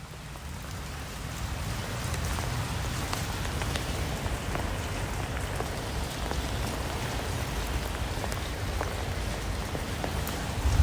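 Rain falling steadily, many separate drops ticking through it; it fades in over the first couple of seconds.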